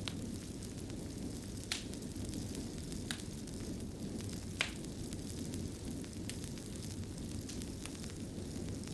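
Fireplace fire burning with a steady low rumble and scattered faint crackles, with three sharper pops in the first half, the last the loudest.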